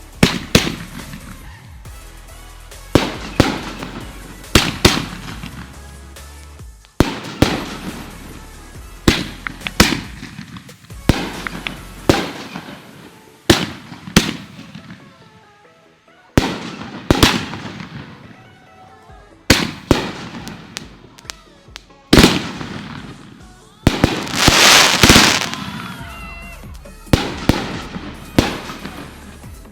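Consumer fireworks going off: sharp bangs every second or two, each trailing off in a fading crackle, with a longer, dense crackling volley about three-quarters of the way through. Music plays underneath.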